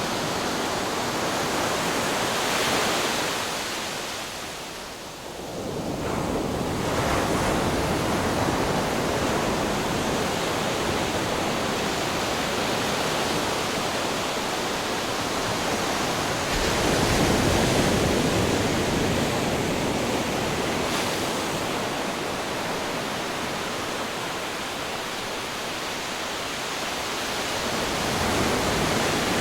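Ocean waves breaking on rocks: a continuous rush of surf that swells and ebbs, easing briefly about five seconds in, then building again, loudest a little past the middle and again near the end.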